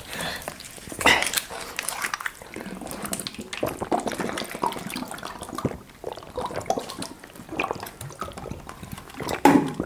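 Fast gulping and slurping of a drink, with irregular wet mouth and swallowing noises as a liquid is downed as quickly as possible.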